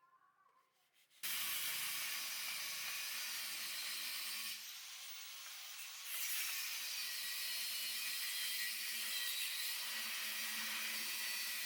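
A loud, steady hiss that starts suddenly about a second in, drops back briefly around the middle, then picks up again until near the end.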